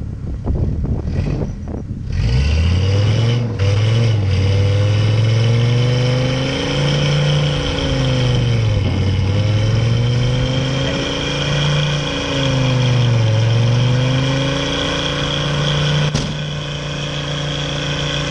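Car engine revving hard during a burnout on dirt. The revs climb, dip and climb again several times, then are held high. There is one short, sharp crack near the end.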